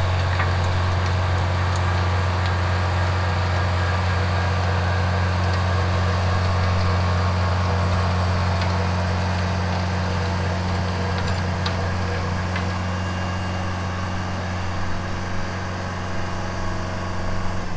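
Kubota L4701 tractor's four-cylinder diesel engine running steadily, an even low drone.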